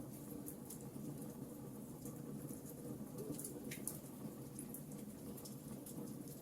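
Wood fire crackling in a fireplace: scattered small sharp pops and snaps, one stronger just before four seconds in, over a steady low rumble of the burning.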